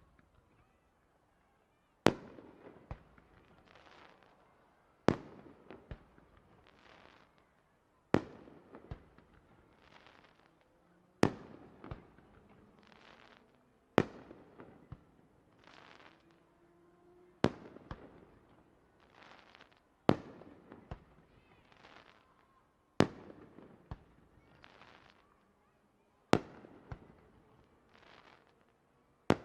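Aerial fireworks shells bursting in a steady sequence, about ten loud bangs roughly three seconds apart. Each bang is followed by a smaller crack and a trail of crackling.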